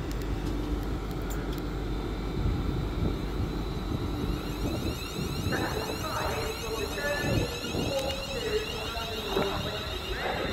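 Train at the station: a steady low rumble, with a steady high-pitched whine building up about halfway in.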